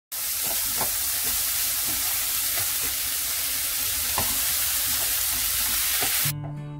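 Julienned zucchini, onion and carrot sizzling in hot oil in a frying pan as they are stir-fried, with a few light clicks of the stirring utensil against the pan. The sizzle cuts off about six seconds in as acoustic guitar music begins.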